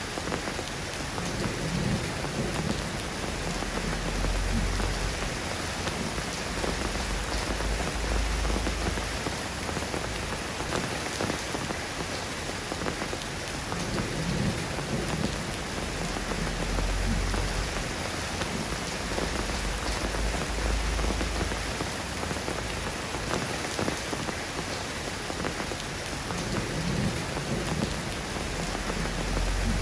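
Steady rain falling, with a low rumble that swells and fades several times underneath.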